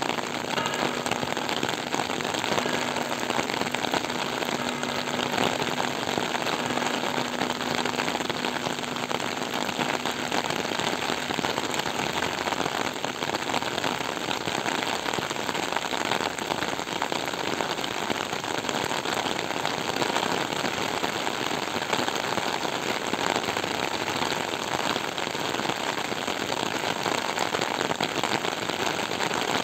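Steady rain falling on wet paving after a thunderstorm: an even hiss thick with many small, sharp drop hits.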